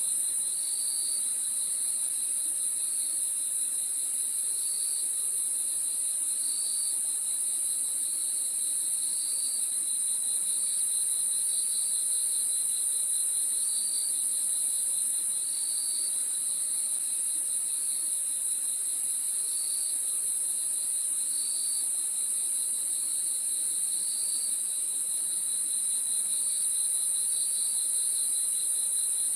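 Crickets chirping at night in a steady, unbroken chorus: a continuous high trill with a lower line of short chirps repeating about once a second.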